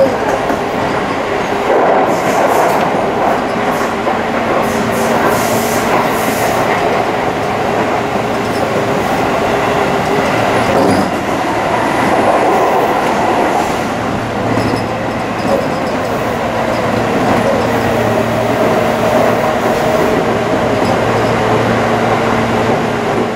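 Tobu Railway electric commuter train running along the track, heard from inside the front cab: steady rolling noise with a motor hum. A low hum comes in about halfway through.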